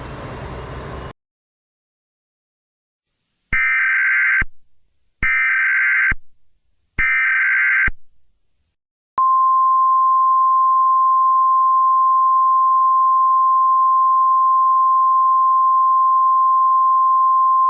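Emergency Alert System SAME header: three short bursts of buzzing digital data, each just under a second long and evenly spaced, starting about three and a half seconds in. From about nine seconds in, these are followed by the steady single 1050 Hz National Weather Service attention tone. Before all this, the preceding audio cuts off about a second in.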